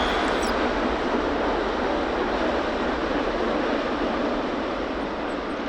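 Jet airliner engine noise on landing: a loud, steady rush that eases slightly near the end.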